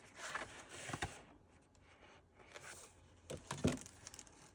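Sheets of a paper pad being handled and turned: soft paper rustling in the first second and again about three and a half seconds in, each ending with a light knock.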